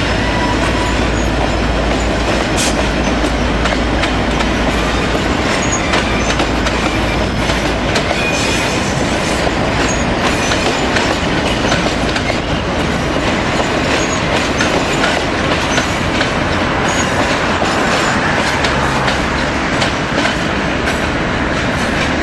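V/Line diesel locomotive hauling passenger carriages through yard points. The engine's low drone is strong for the first several seconds and then fades. Wheels click steadily over rail joints and crossings, with a little wheel squeal.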